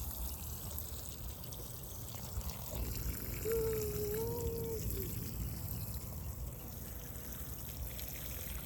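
Water pouring and trickling steadily as garden plants are watered. A short held tone, like a hum, sounds briefly about three and a half seconds in.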